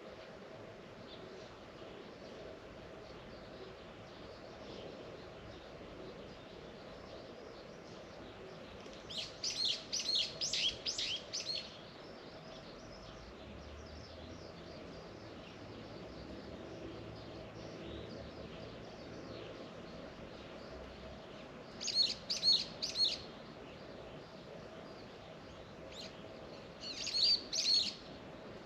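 A songbird sings three short phrases of fast repeated notes, each note sweeping downward. The first phrase is the longest; the other two come near the end. Other birds chirp faintly throughout, and a faint steady hum lies underneath.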